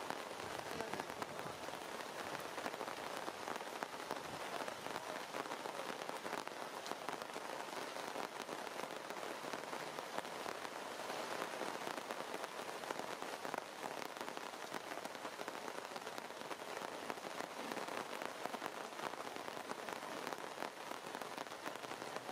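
Steady rain falling on leafy trees, a dense, even patter of drops.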